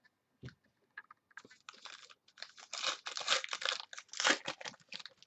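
Crinkly trading-card packaging being handled and pulled open: a few scattered clicks, then about a second and a half in, dense irregular crackling that runs until just before the end.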